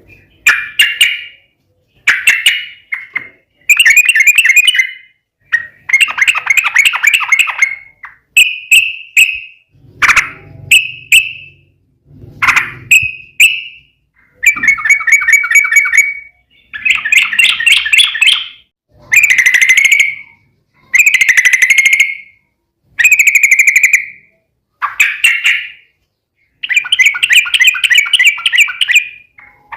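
Yellow-vented bulbul (trucukan) singing: a long run of loud, rapid bubbling phrases, each half a second to two seconds long and separated by short pauses, the rolling 'ropel' song used as a lure to set other trucukan singing.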